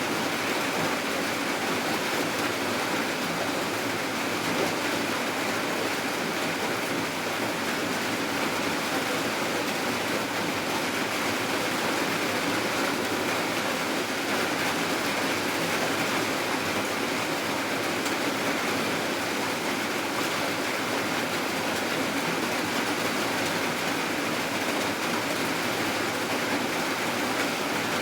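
Steady rain falling, an even hiss that does not change, with no single drops, thunder or other events standing out.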